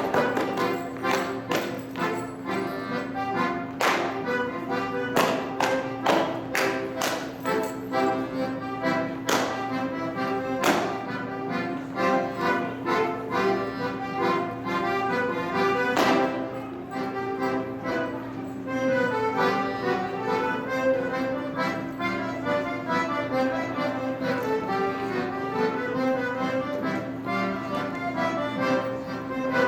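Accordion-led Bavarian folk tune played for a Schuhplattler dance, with the dancers' sharp hand slaps on thighs and shoe soles, claps and stomps falling in quick runs through the first half; later the melody carries on with only a few strikes.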